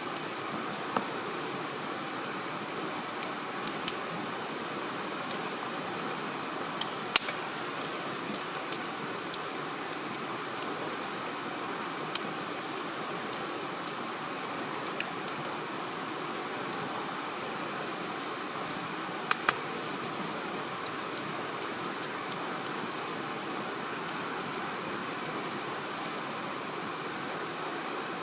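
Wood fire burning in a fire grill, crackling over a steady hiss with irregular sharp pops, the loudest about seven seconds in and a close pair near twenty seconds.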